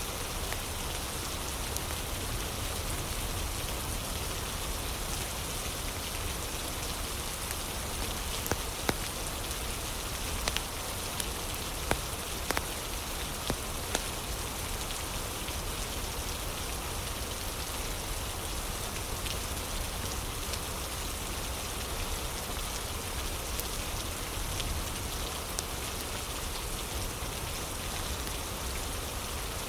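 Steady rain with a crackling fire: an even hiss of rain with scattered sharp pops, several of them about ten seconds in.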